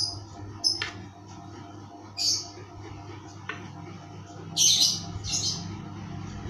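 Small bird chirping in short, high calls, several times, with the loudest pair a bit past the middle, over a low steady hum.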